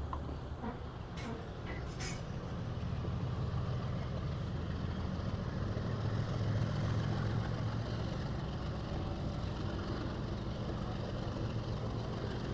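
Steady low rumble of a moving passenger train heard from inside the carriage, growing somewhat louder a few seconds in, with a couple of brief clicks about one and two seconds in.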